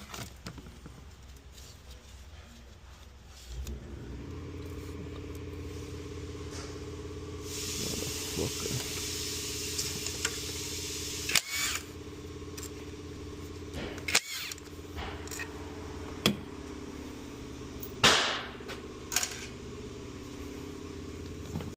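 Mercedes-Benz C63's twin-turbo V8 starting about three and a half seconds in and then idling steadily, with a few sharp clicks and knocks over the idle.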